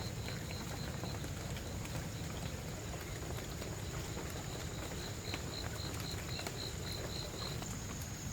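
Insects calling outdoors: a chirp repeated a few times a second, stopping about a second in and starting again around the middle for about three seconds, over a steady high insect drone and a low rumble.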